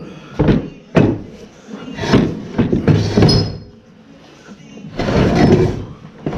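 A heavy wood planer being hoisted and set down: two hard knocks in the first second, then bouts of clunking and scraping.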